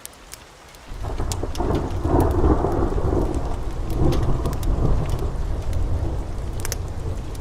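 A thunderclap's rumble breaks in about a second in, deep and loud, and slowly fades over steady heavy rain, with scattered sharp crackles.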